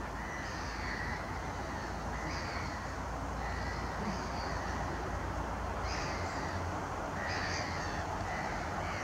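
A bird calling over and over, roughly once a second, with a steady low rumble underneath.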